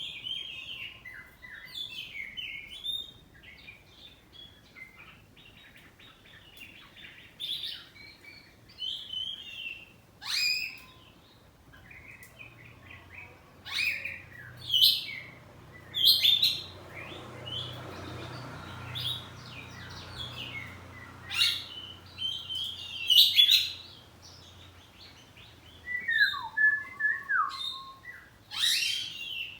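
Oriental magpie-robin (kacer, poci variety) singing a full, varied song: loud whistles, sharp chirps and gliding notes delivered in quick succession, with short pauses between phrases.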